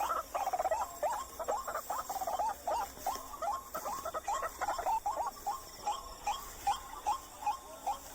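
White-breasted waterhen calling: a long unbroken run of short notes, repeated about two or three times a second.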